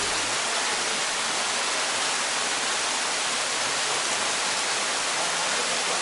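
Waterfall: water pouring from a cliff into a pool below, a steady rushing hiss.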